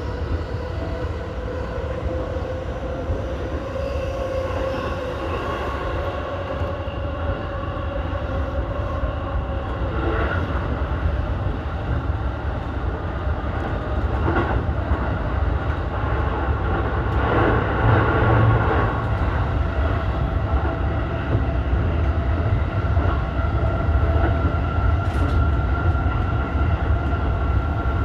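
Keihin-Tohoku Line electric commuter train running at speed, heard from inside the front car: a steady low rumble of wheels on rail under a steady electric motor whine, with a few brief rattles in the middle.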